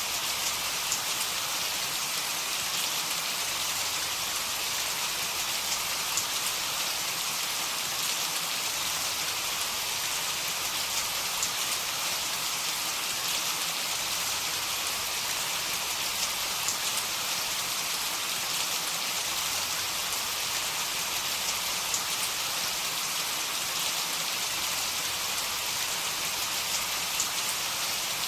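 Heavy rain falling steadily, a dense even hiss with individual drop hits scattered through it.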